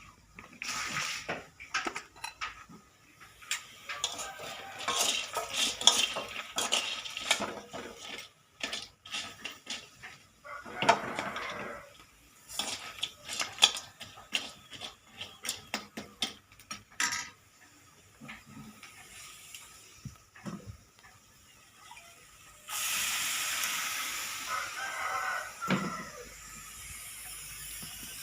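Dishes, pots and utensils clattering, with repeated sharp knocks and scrapes. Later a steady hiss begins and runs on.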